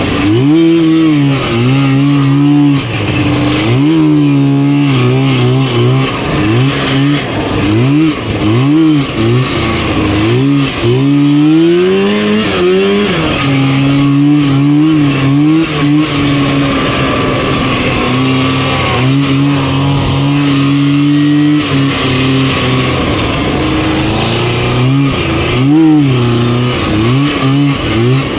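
Rotax 503 two-stroke twin of a Lynx snowmobile revving up and down over and over, then held at steady high revs for several seconds in the middle before the throttle is worked again near the end.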